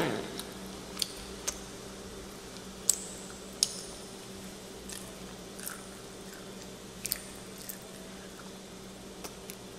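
Close-up mouth sounds of a child chewing and biting prawn: scattered wet smacks and sharp clicks, about a dozen of them, over a faint steady hum.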